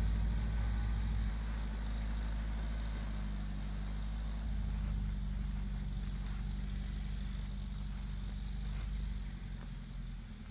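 Citroën DS 21's four-cylinder engine running steadily as the barn-find car, just awakened after long storage, drives slowly away, fading as it goes.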